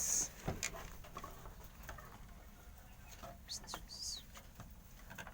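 Scattered light clicks and rustles, with a few short high bird chirps about three and a half to four seconds in.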